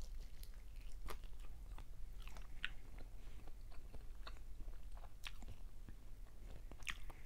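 Close-up chewing and biting of a mouthful of fried fish and rice, with scattered short crunchy clicks and mouth smacks.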